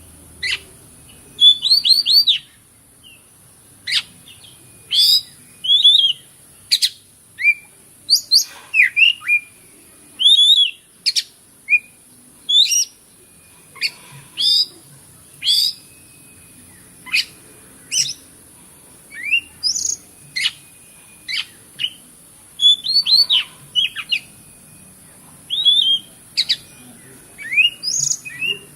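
Oriental magpie-robin singing: a rapid run of short, sharp whistles and chirps, a phrase every second or so, over a steady high hiss.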